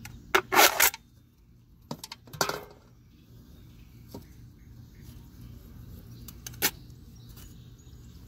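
A few sharp clicks and clatters, the loudest cluster about half a second in and single ones scattered later, over a low steady hum.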